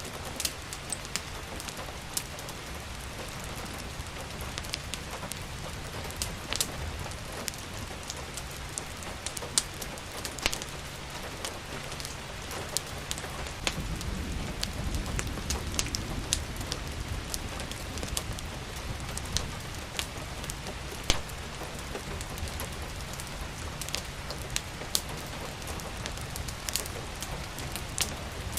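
Steady rain with a wood fire crackling: irregular sharp pops over a constant hiss of rain. A low rumble swells for a few seconds about halfway through.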